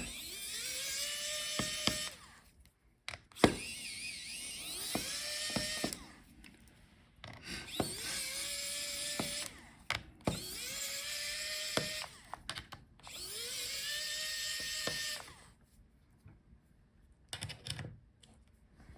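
Small electric screwdriver backing out laptop hinge screws: five short runs, each spinning up in pitch and then holding steady, with clicks between them.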